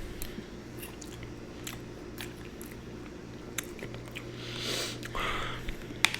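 Close-miked eating of fruit cereal in coconut water: chewing with scattered wet mouth clicks, a short noisy swell about five seconds in, and a sharp click just before the end.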